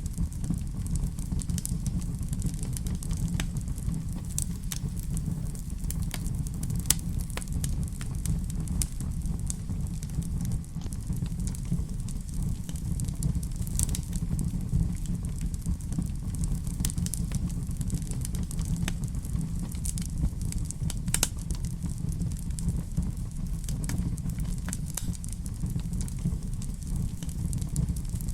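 Wood fire crackling in a fireplace: a steady low rumble under scattered irregular pops and crackles, a few of them sharper than the rest.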